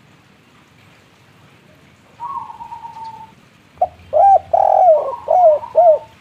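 Spotted dove (tekukur) cooing its 'kuk 3' song: a fainter drawn-out note about two seconds in, then a loud run of about five short coos, each rising and falling in pitch, over the last two seconds or so.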